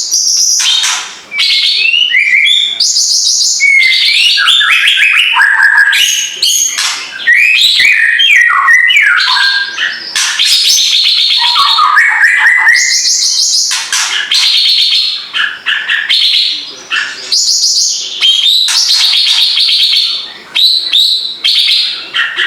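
A cucak ranting jawa in full song, a long run of quick, varied whistled notes alternating with rapid buzzy trills, with only brief pauses.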